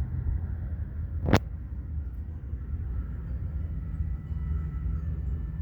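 Steady low rumble of interstate highway traffic, with a single sharp click about a second and a half in.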